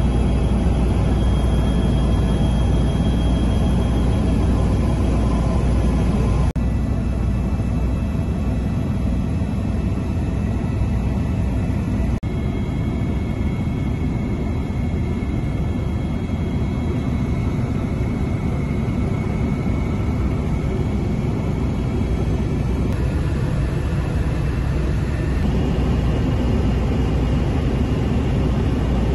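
Écureuil helicopter in flight: steady rotor and turbine noise with a faint high whine. The sound shifts slightly and abruptly three times.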